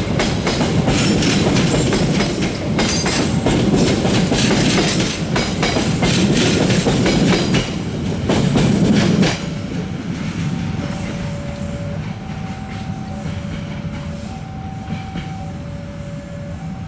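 Passenger train passing close by, its wheels clattering rapidly over the rail joints. About nine seconds in, the sound drops suddenly to a fainter rumble, over which a two-note electronic tone, a short high note then a longer low one, repeats about every two seconds.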